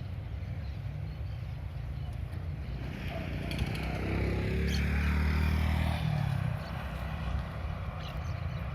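A motor vehicle passing by over a steady low rumble of traffic, growing louder from about three seconds in and fading away by about six and a half seconds, its pitch falling as it goes past.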